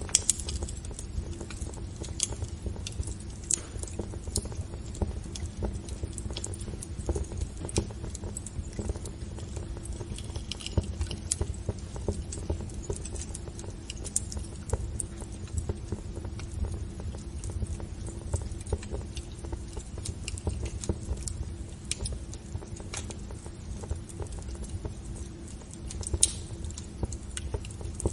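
Wood fire crackling in a fireplace: scattered, irregular pops and snaps over a steady low rumble.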